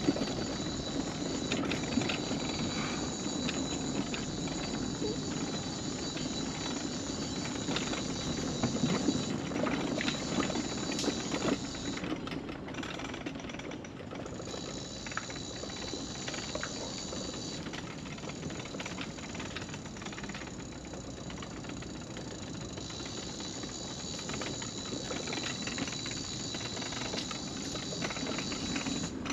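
Electric mobility scooter in motion: a steady motor hum with a high whine, and scattered clicks and knocks from the ride.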